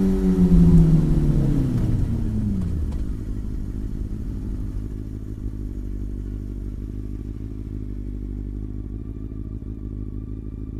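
Sport bike engine dropping in pitch over about three seconds as it slows down, then settling into a steady, quieter low running sound.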